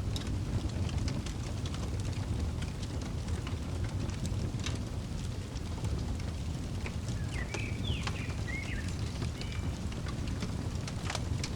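Wood fire crackling: a steady low rumble of flames with scattered sharp pops. A bird chirps a few short notes about two-thirds of the way in.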